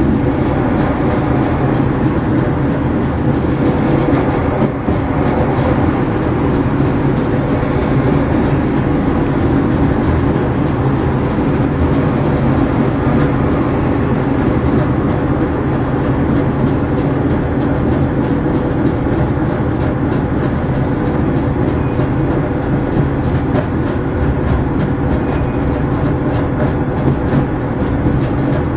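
Irish Rail 2600 class diesel railcar running, heard from inside its front coach through an open window: a steady engine drone over the rumble of the wheels, with light clicking on the rails.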